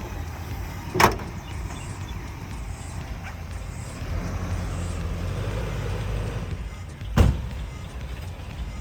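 1988 Chevy C1500 pickup's engine idling steadily, with two loud slams: the hood being shut about a second in and another slam about seven seconds in.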